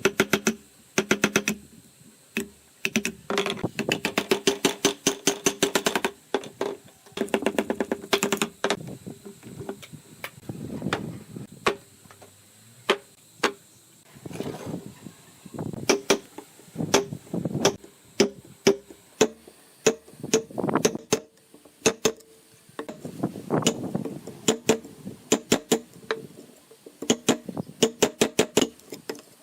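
Hand tools knocking on bamboo: bursts of rapid, sharp strikes, several a second, each with a short hollow ring, broken by brief pauses.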